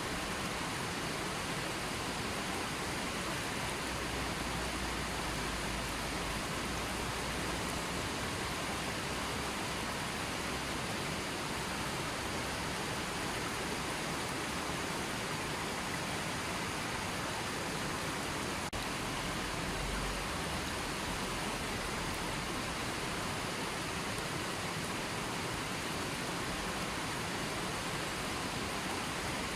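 A river or stream flowing, a steady even rush of water with no change in level.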